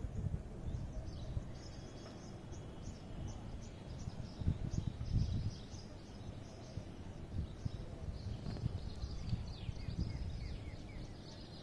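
Small birds chirping in quick, high notes throughout, over a low rumbling noise that swells about four to five seconds in.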